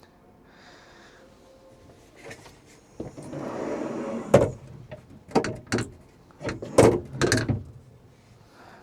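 Aluminium camper furniture being moved by hand: a short scraping slide about three seconds in, then several sharp knocks and clatters as the parts are shifted and set down.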